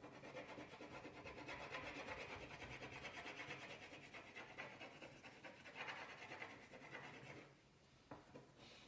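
Faint, scratchy colouring on paper: a drawing tool rubbed back and forth across the page in quick strokes, stopping near the end with a couple of light ticks.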